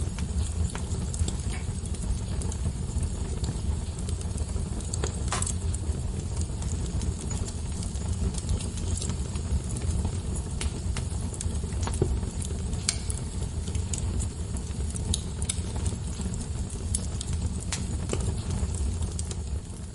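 Wood fire burning in a fireplace: a steady low rumble of flames with scattered sharp crackles and pops every second or so.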